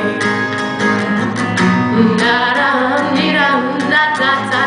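Live acoustic guitar strumming the song's chords, with a female voice singing a wordless, gliding vocal line over it between sung lines.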